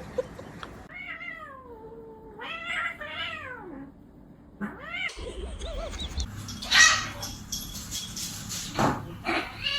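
Domestic cat meowing repeatedly: long, drawn-out meows that slide up and down in pitch, with a gap partway through filled by rustling and a sharp knock.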